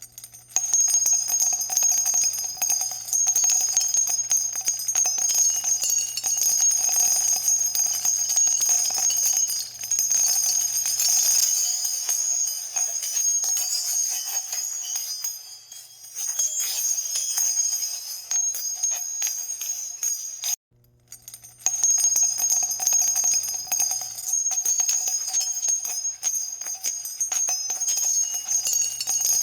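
Many marbles rolling and clattering down a marble run: a dense stream of rapid clicks with a steady high, bell-like ringing over them. It cuts out suddenly for about a second near two-thirds of the way through, then resumes.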